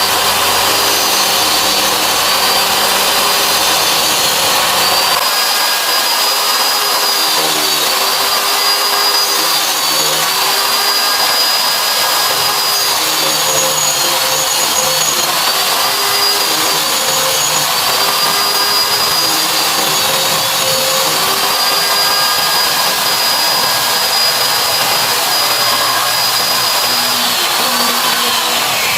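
Electric circular saw motor running steadily under grinding load while sharpening the teeth of a saw blade, its high whine dipping briefly every few seconds.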